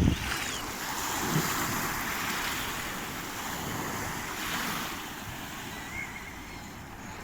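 Small sea waves washing onto the shore, swelling in the first couple of seconds and then slowly fading, with some wind on the microphone.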